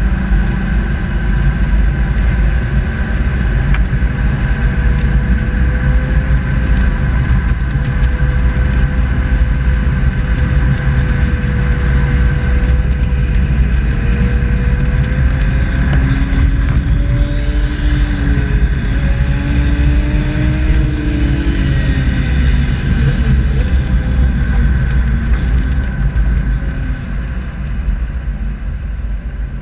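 A vehicle driving slowly on a racetrack: a steady low rumble with a constant whine. About halfway through, a motorcycle engine rises and then falls in pitch as the bike goes by, over several seconds.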